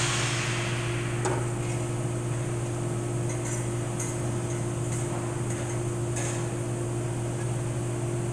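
A few faint metallic clinks as transmission parts are handled, over a steady low hum.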